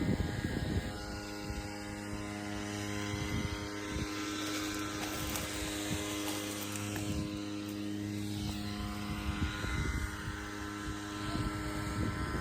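A motor running steadily, a constant hum.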